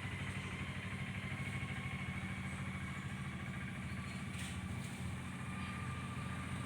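An engine idling steadily, a low hum.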